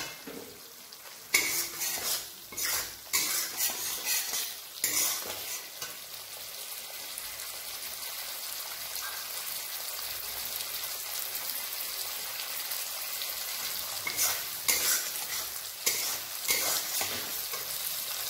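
Spice paste and chopped tomato sizzling in hot oil in a wok. A metal spatula stirs and scrapes against the pan in a run of strokes during the first few seconds and again near the end, with a steady sizzle between.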